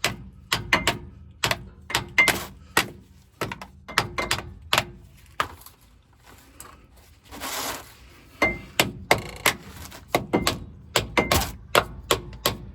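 Repeated sharp metal-on-metal strikes, about two or three a second, some with a short ring, as a metal tool is driven at the seam of a truck's rear differential cover to break its sealant. They stop for about two seconds midway, with a brief rushing noise, then start again.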